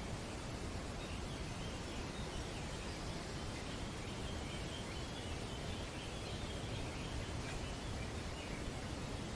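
Steady outdoor hiss of wind moving through trees, with faint bird chatter in the middle.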